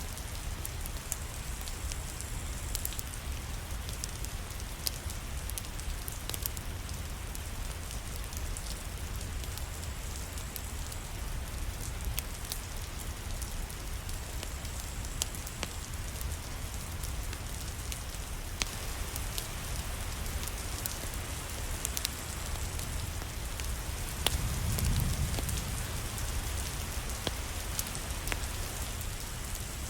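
Steady rain falling, with scattered sharp ticks throughout and a brief low rumble that swells and fades about twenty-five seconds in.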